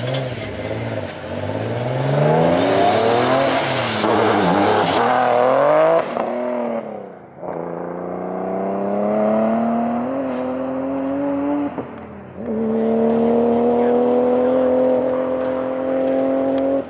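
Engine of a 970-whp Nissan 370Z being driven hard. For the first several seconds its pitch swings up and down repeatedly, with a faint high whistle over it. It then pulls through the gears in two long climbs, with a short drop between them about twelve seconds in as it shifts.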